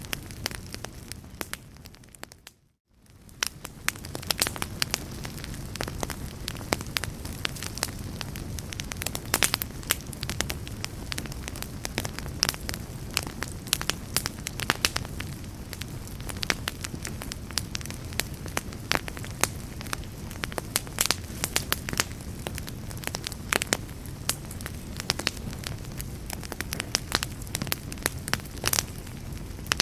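Wood fire crackling in a fireplace: a steady low rumble of burning with frequent sharp pops and snaps. The sound fades out briefly about three seconds in and comes back.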